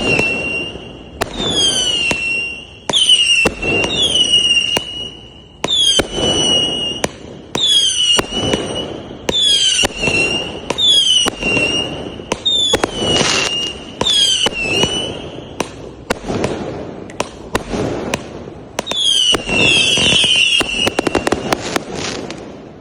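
A 100-shot 0.8-inch fireworks cake firing shot after shot, about one a second, with sharp bangs and pops. Each shot carries a high whistle that drops in pitch and then holds steady. The firing stops near the end as the cake finishes.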